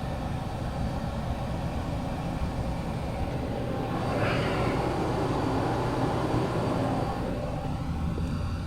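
Dryer vent cleaning equipment running steadily with a continuous rushing rumble, a little louder about four seconds in.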